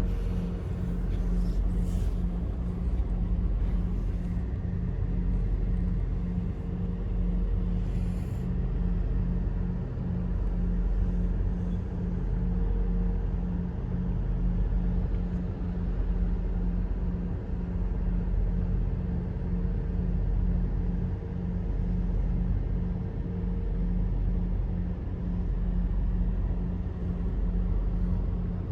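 A motor vehicle's engine running steadily: a loud low rumble with a fine even pulse and a faint steady hum above it, swelling and easing every couple of seconds.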